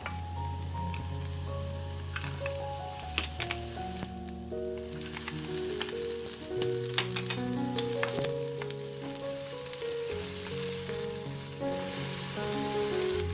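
Sliced garlic, onion and carrot sizzling in hot oil in a stainless steel wok, stirred with a wooden spatula that scrapes and knocks against the pan now and then. Soft background music with held notes plays underneath.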